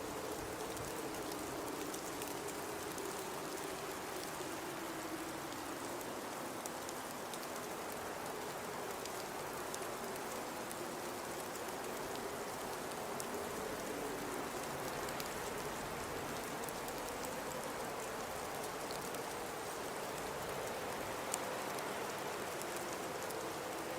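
Blizzard wind blowing steadily: a low moaning tone that slowly wavers in pitch over a constant hiss, with faint scattered ticks.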